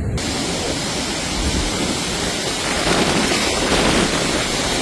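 Loud, steady rush of storm wind and water, with wind buffeting the microphone; it starts abruptly right at the beginning and swells slightly about halfway through.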